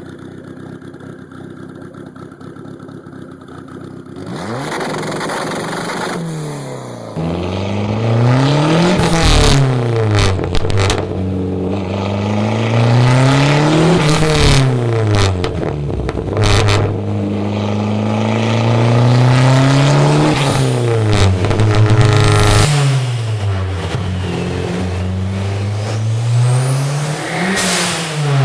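Turbocharged 2.4-litre four-cylinder engine of a Dodge Neon SRT-4 on a dyno, running on E85 through a big 78 mm turbo. After a quieter start it comes up loud about a quarter of the way in, then revs up and falls back several times, with a few sharp cracks along the way.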